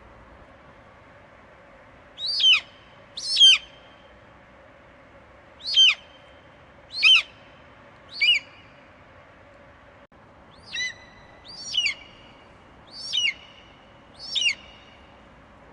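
Eagle giving short, high screeching calls, each one falling sharply in pitch. There are nine calls, loosely in pairs about a second apart, over a steady faint hiss.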